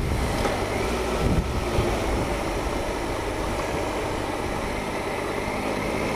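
Triumph Explorer 1215cc inline-triple motorcycle engine running steadily, with some low rumble on the microphone.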